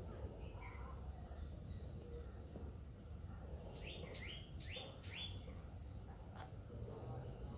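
Outdoor ambience: a bird gives a quick run of four or five falling chirps about four seconds in, over a steady high insect buzz.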